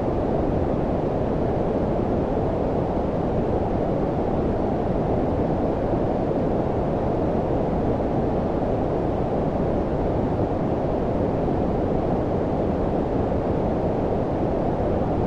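Steady low-frequency filtered noise, deep and muffled, with almost nothing above the mid range and no changes in level.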